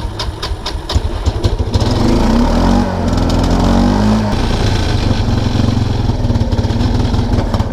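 Kawasaki Prairie 300 ATV's single-cylinder four-stroke engine running unevenly under throttle, its revs rising and falling a couple of seconds in. It is struggling because it runs very rich, which the owner puts down to a carburetor float stuck open.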